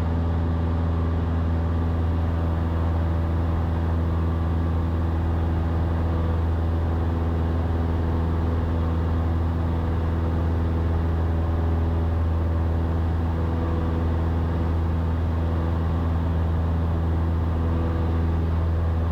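Cessna 172's piston engine and propeller droning steadily at climb power, a constant low hum with no change in pitch.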